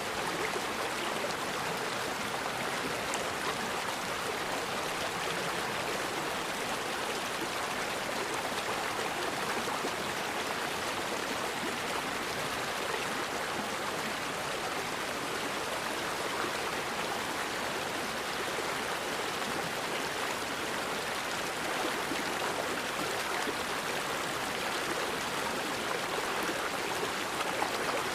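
River water flowing steadily over rocks: an even, unbroken rush.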